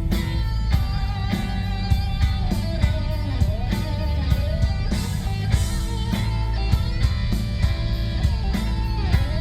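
Live rock band playing: electric guitar over bass and a steady drum beat.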